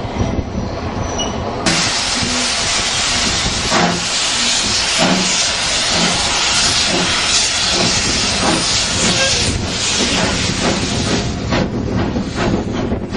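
Steam locomotive hissing loudly as it vents steam, starting suddenly about two seconds in and easing off near the end, with the train's running rumble and rail clatter under it.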